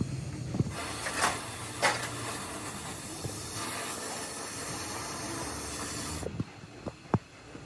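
Compressed air hissing in one steady blast of about five and a half seconds that starts and cuts off abruptly, followed by a few sharp clicks near the end.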